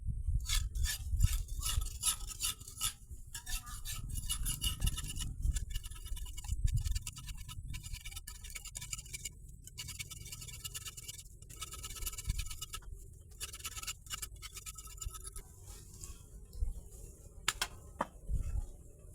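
Repeated light clinking and scraping of hard objects with a short ringing tone, over a steady low rumble. The clinks thin out in the last few seconds.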